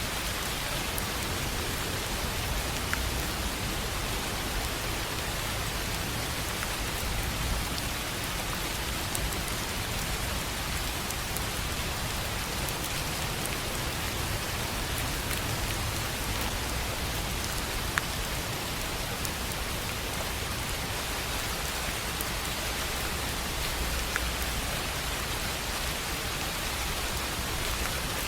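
Steady rain on a tin roof, with a few louder single drops ticking now and then.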